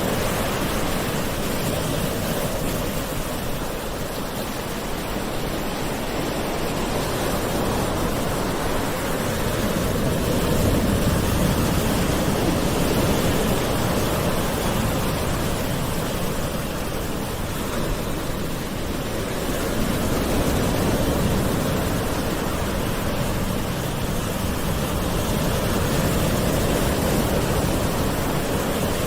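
Gentle ocean waves washing ashore in a steady hiss, swelling and easing slowly every several seconds.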